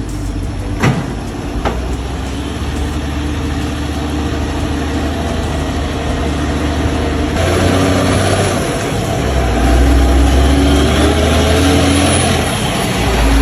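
Heavy truck engine running steadily as the rig climbs, with two sharp clicks about a second in. Halfway through the engine sound grows louder and harsher.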